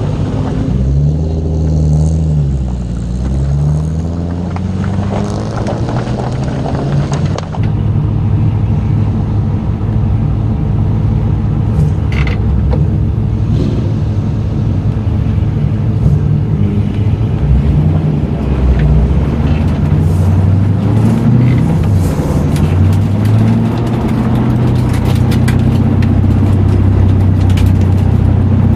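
LS1 V8 engine of a BMW E30 race car driven hard on track, its pitch repeatedly rising and falling as it revs through the gears and backs off for corners. The sound changes abruptly about seven and a half seconds in, and scattered clicks come in over the second half.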